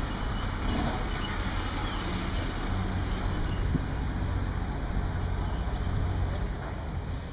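Outdoor street noise dominated by a steady low engine rumble from a motor vehicle running close by.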